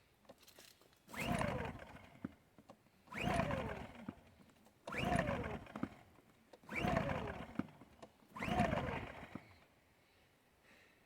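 Champion 100900 2000 W inverter generator being pull-started five times with the recoil cord, each pull a whirring crank that falls in pitch; the engine does not catch with the choke off in the run position.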